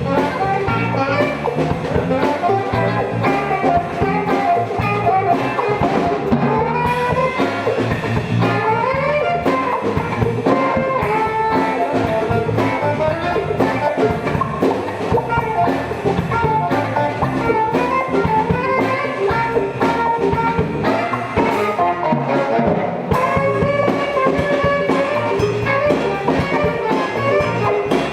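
Live band playing an instrumental jazz-funk number: drum kit and guitar under a melodic lead line over a steady groove.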